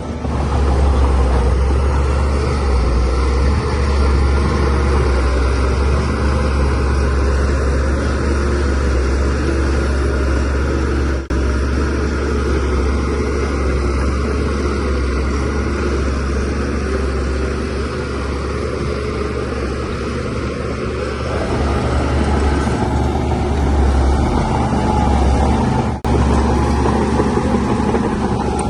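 DH17C3 bulldozer's diesel engine running steadily under load, a deep drone with a noisy mechanical wash above it, briefly cut off twice, about 11 seconds in and near the end.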